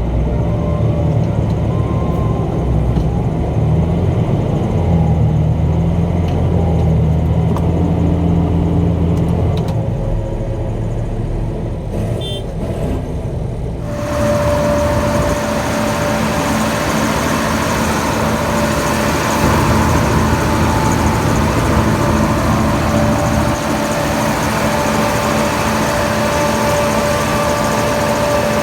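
Heavy farm machinery working in a maize field: the diesel engines of a tractor and a self-propelled forage harvester running under load with a steady low drone. About halfway through the sound switches abruptly to a harsher, fuller noise carrying a steady whine.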